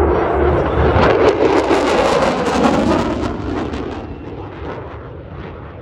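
F-22 Raptor's twin Pratt & Whitney F119 jet engines roaring past with a crackle, then fading away over the last two seconds.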